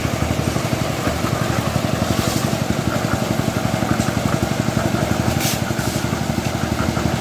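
A heavy engine of construction machinery running steadily with a fast, even pulse. A couple of short hisses come about two and five seconds in.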